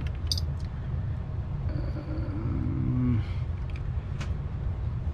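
A few light clicks of small cassette-recorder parts being handled and set down, over a steady low background rumble.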